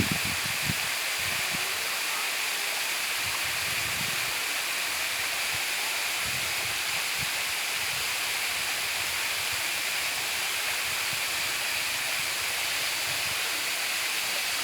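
Waterfall rushing: a steady, even hiss of falling water, with a few faint low knocks in the first second and again about four seconds in.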